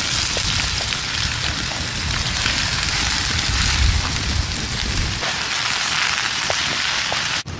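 Food frying in a hot pan over a campfire: a steady, dense sizzle full of small crackles.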